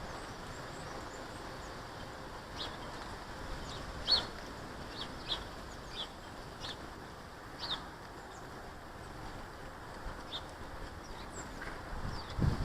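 Small garden birds at a feeder giving short, high chirps, about a dozen scattered irregularly, over a steady outdoor hiss.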